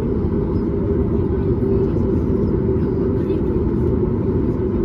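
Steady low rumble inside the cabin of a Boeing 737 MAX 8, its CFM LEAP-1B engines idling as it taxis after landing.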